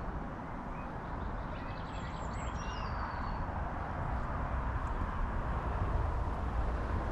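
A low, steady rumble that slowly grows louder, with a bird chirping and trilling briefly about two seconds in.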